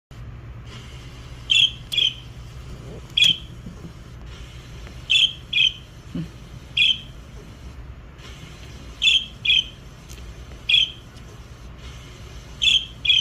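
Short, sharp bird chirps, about eleven of them, coming singly or in quick pairs every second or two over a steady low hum.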